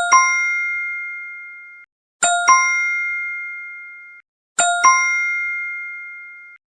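Bell sound effect: a bright metallic ding-ding, two quick strikes that ring on and fade over under two seconds, played three times in a row.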